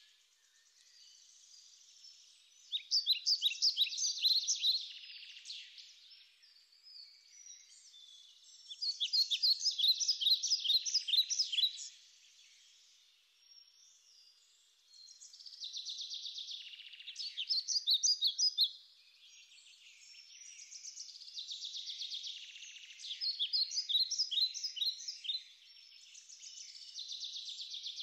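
Songbird singing: phrases of rapid high chirps and trills, each about three seconds long and coming about every six seconds, with a fainter high hiss of outdoor ambience between them.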